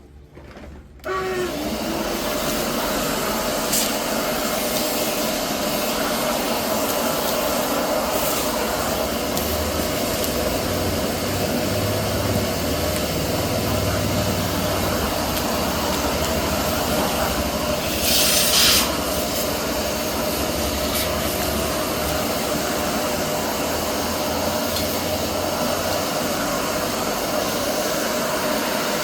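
An electric motor-driven machine switches on about a second in and runs steadily with a constant hum and rushing noise, with a brief louder hiss about eighteen seconds in.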